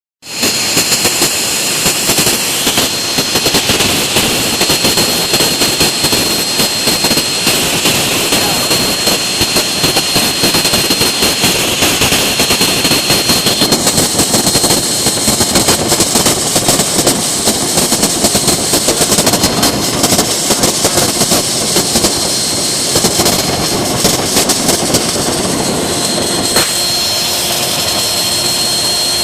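CNC router spindle whining at a steady high pitch as its bit cuts HDPE plastic, over a loud, rough cutting noise with fast chattering. The character of the cutting noise changes about halfway through.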